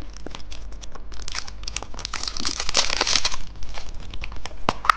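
Surprise-egg candy wrapper crinkling and tearing as it is opened by hand, with scattered small crackles and a sharp click near the end.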